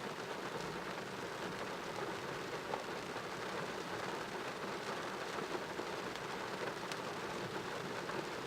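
Heavy rain pouring down steadily, pattering on surfaces with many small drop impacts.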